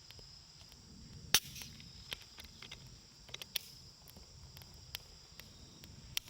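Wood campfire crackling, with scattered sharp pops of burning wood; the loudest pop comes about a second and a half in and another near the end.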